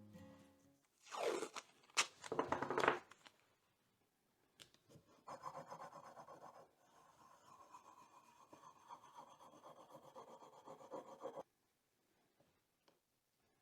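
The dull, burred edge of an old Swedish barrel knife being sharpened by hand: hard steel scraping in a few quick strokes, then a longer stretch of steady rubbing with a faint high ring that stops abruptly.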